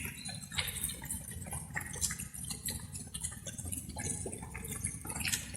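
Light rain, with drops dripping and plinking irregularly, over a steady low rumble.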